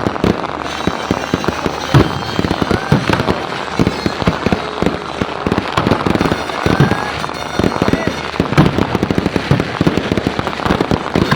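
Fireworks and firecrackers going off in a dense, continuous run of rapid bangs and pops, with a few louder blasts among them.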